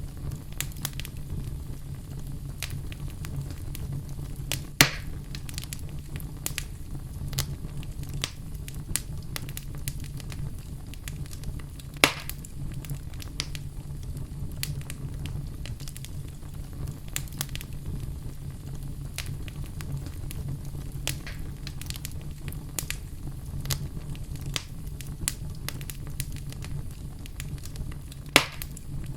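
Wood fire in a fireplace crackling over a steady low rumble, with frequent small snaps and three louder pops spread through it.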